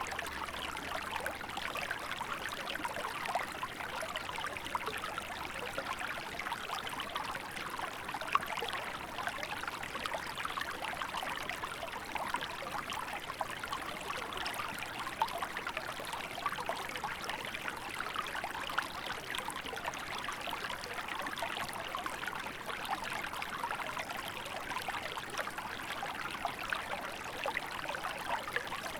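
Small river flowing steadily, a continuous babbling rush of water with fine splashing and trickling.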